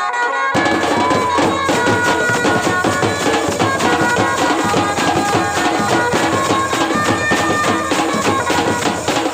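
Traditional wedding band music: a reedy wind instrument holds and shifts notes over fast, steady drumming. The music drops out briefly and picks up again about half a second in.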